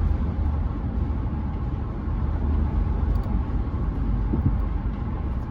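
Steady road and engine rumble inside the cab of a moving Chevrolet pickup truck.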